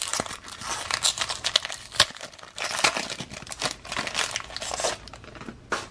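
Wrapper of a 2002 Upper Deck Ovation baseball card pack being torn open and crinkled: a dense run of crackling rustles with a sharp click about two seconds in, dying down near the end.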